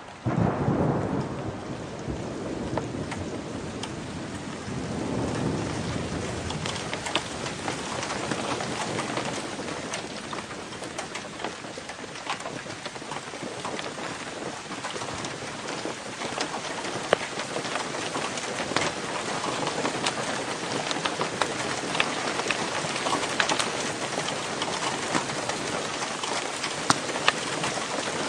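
Thunderstorm: heavy rain falls steadily, with many sharp individual drop hits. Thunder rolls loudly right at the start and rumbles again about five seconds in.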